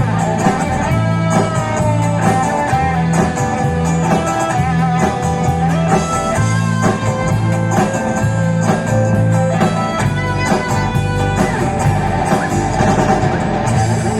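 Live band playing an instrumental passage without vocals: guitar over a steady, repeating bass line.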